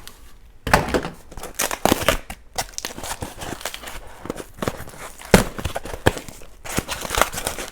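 Small packaging being opened by hand with a box cutter: irregular crinkling, tearing and scraping of the wrapping, with scattered clicks and knocks, the sharpest about two thirds of the way in.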